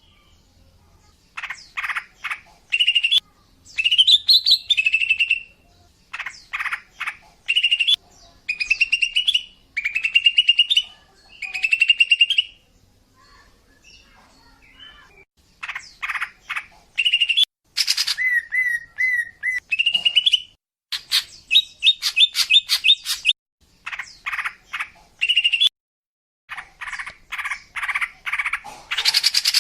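Female cucak ijo (leafbird) singing: quick bursts of rapid chirping notes and short rising phrases, repeated with brief pauses between them and a quieter gap about halfway through.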